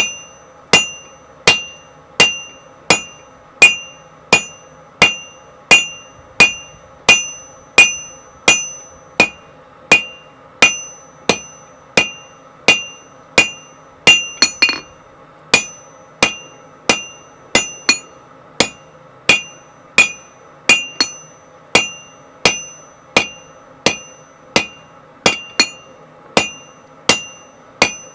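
Hand hammer striking hot 1060 tool steel on an anvil in a steady rhythm, about one and a half blows a second, each blow ringing. A faint steady hum runs underneath.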